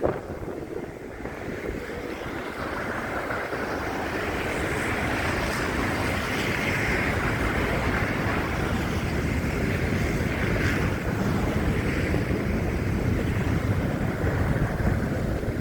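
Wind buffeting a phone's microphone in a snowstorm: a steady, low rushing rumble that grows louder over the first few seconds, then holds.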